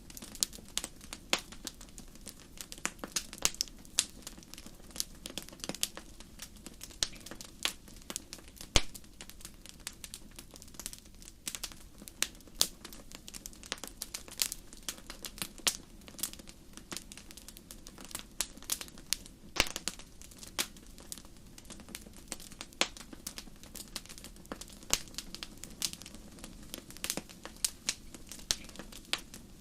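Wood fire burning: irregular sharp crackles and pops over a steady low hiss, with a couple of louder pops.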